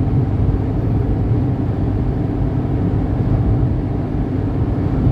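Dust-storm wind blowing hard across the microphone: a loud, steady low rumble.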